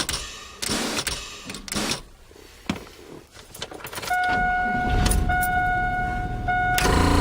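Keys jangling and rattling, then a steady electronic warning buzzer from the truck's dash, broken twice. The starter cranks under the buzzer, and the truck's engine catches and runs near the end.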